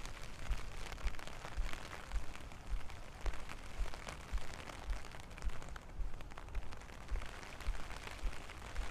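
Steady rain falling, with many close raindrops ticking sharply through it. Low, regular thumps about twice a second run underneath, the footsteps of someone walking in the rain.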